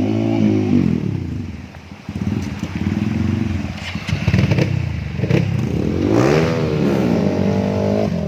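Off-road trail motorcycle engines revving unevenly, the pitch surging up and falling back again and again as the bikes work across a slippery rocky riverbed, with some clattering knocks.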